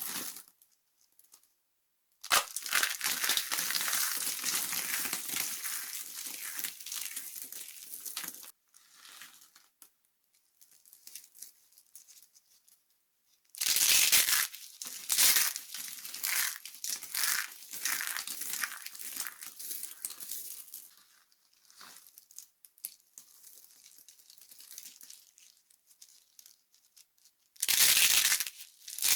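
Dry bar soap being crushed and broken apart, a dense crumbly crackling in three long stretches with short quiet pauses between.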